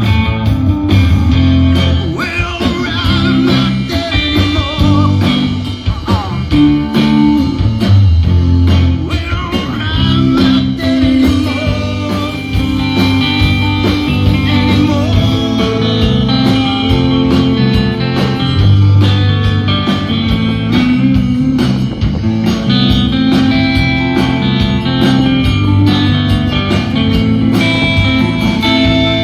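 Live blues-rock band playing: electric guitar over bass with a steady beat.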